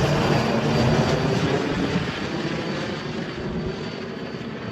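A tour helicopter flying away, its rotor and engine noise fading steadily.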